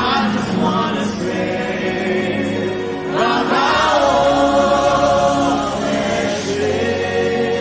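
Gospel worship music: a choir sings in drawn-out phrases over steady instrumental backing, with the strongest phrase about halfway through.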